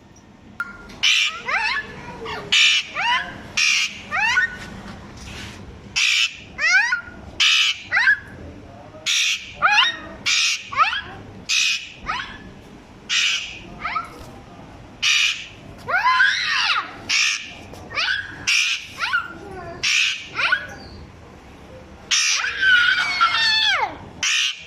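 Parrots squawking and calling over and over: short harsh calls, some with whistled rising and falling pitch glides.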